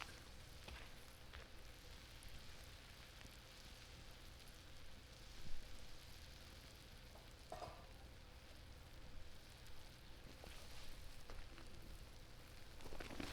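Chicken thigh and sliced long onion simmering in a mentsuyu and mirin broth in a skillet over a wood fire: a faint, steady sizzle with a few scattered ticks and one louder knock about halfway through.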